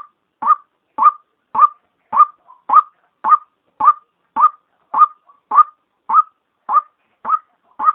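White-breasted waterhen calls, the female's voice used as a lure. One short, rising note is repeated at a steady, even pace of nearly two a second.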